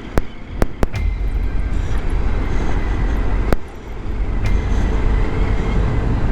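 A BMW R1250GS Adventure's 1250 cc boxer twin running under way, with steady wind and road noise and a few sharp clicks or knocks. The sound dips briefly near the start and again about four seconds in.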